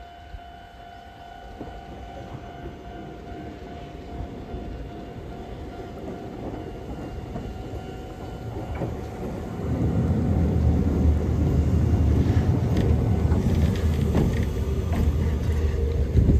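Electric commuter train arriving at a station. Its rumble grows steadily louder as it approaches, swells sharply about ten seconds in as it runs in alongside the platform, and carries a rapid series of wheel clacks over the rail joints near the end as it slows.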